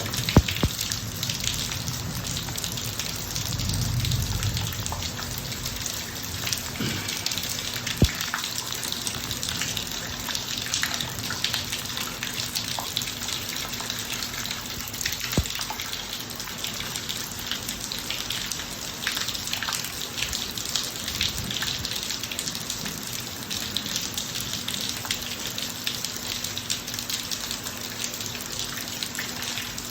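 Steady heavy rain falling on a driveway, a constant hiss with scattered drop ticks and a few louder single drips, and a soft low rumble swelling briefly about four seconds in.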